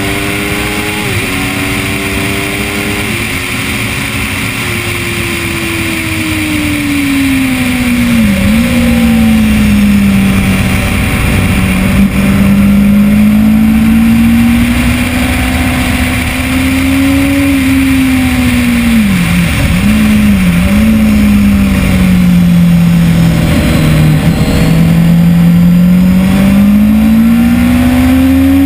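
2010 Kawasaki ZX-10R's inline-four engine at high revs, heard on board over steady wind rush. The engine note drops in a couple of quick steps in the first few seconds as it shifts gear, then sinks and climbs through the corners with a few short sharp dips around the middle, and rises again near the end as the bike accelerates.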